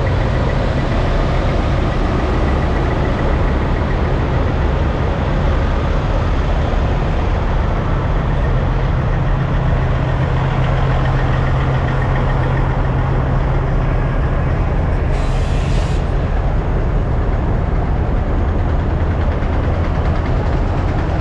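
Semi trucks' diesel engines running at idle, a steady low rumble, with a short hiss about fifteen seconds in.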